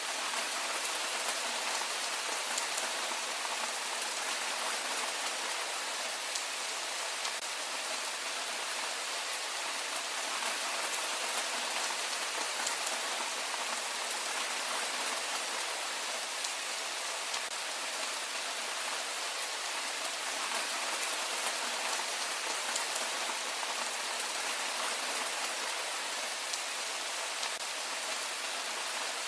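Heavy rain falling steadily, a dense even hiss of drops with fine patter of individual drops, unchanging throughout.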